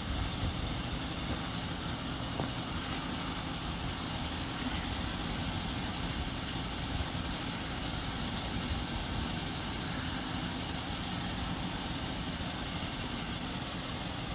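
Steady low rumble of a running vehicle engine, with no clear changes.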